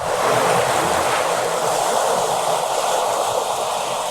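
Steady rushing noise of wind and water aboard a J/105 sailboat sailing in a strong breeze.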